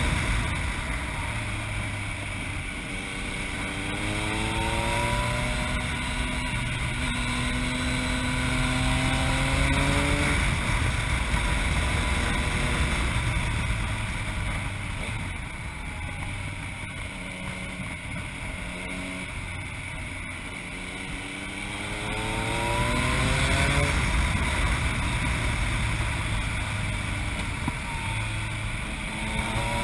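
Yamaha MT-09's three-cylinder engine through an Akrapovic exhaust, accelerating up through the gears in rising steps a few seconds in, running steadier in the middle, then accelerating again twice toward the end, with wind noise on the microphone.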